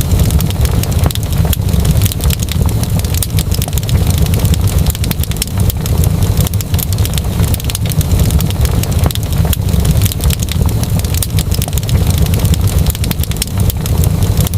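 Wood fire crackling in a fireplace: frequent small sharp pops and snaps over a steady low rumble of the burning fire.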